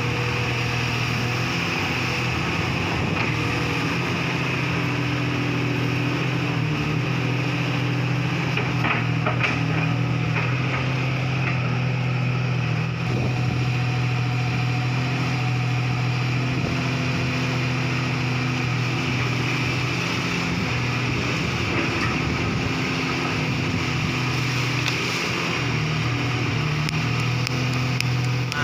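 Komatsu PC200-5 excavator's diesel engine running steadily, with a few faint knocks about nine seconds in.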